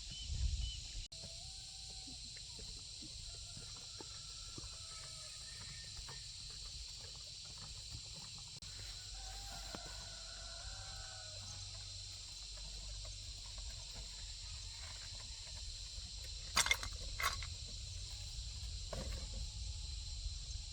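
Rural outdoor background: a steady high insect drone with faint short bird or chicken calls. Two sharp clicks or knocks come close together near the end.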